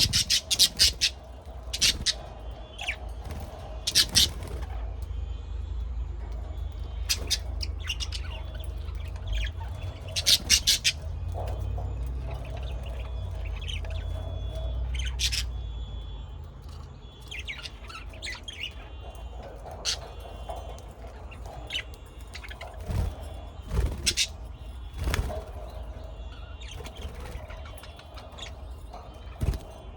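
Birds calling: short, sharp chirps and squawks at irregular intervals, some in quick runs of three or four, over a low steady rumble.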